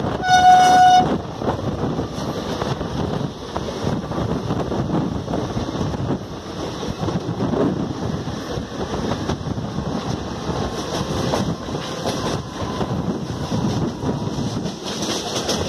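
A train horn gives one short blast, under a second long, near the start. After it comes the steady rumble and rail clatter of a suburban local train and an express train running side by side, heard from the local's open doorway.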